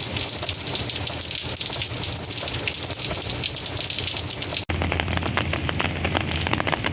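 Heavy desert monsoon rain coming down hard: a dense, steady hiss made of countless drop hits. About two-thirds of the way through it breaks off for an instant and resumes with a low hum beneath it, sounding heavier than it is.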